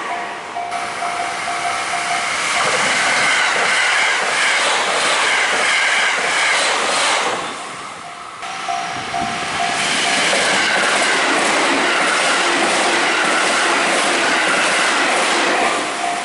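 Electric trains passing over a level crossing, the wheels clickety-clacking over the rail joints, while the crossing's warning bell rings. The sound dips briefly about eight seconds in, then the Shirasagi limited express runs through, loud and steady.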